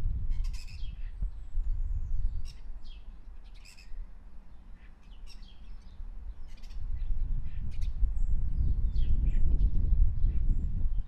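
Small birds chirping and calling in short, scattered notes, over a low rumble that grows louder about seven seconds in.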